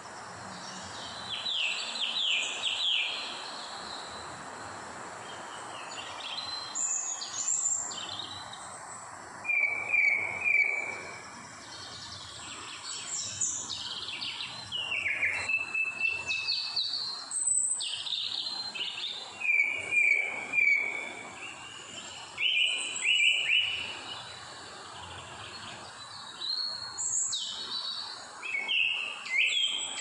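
Wild birds calling and singing in tropical greenery: short chirps and quick runs of two to four notes, coming every few seconds, over a steady background hiss.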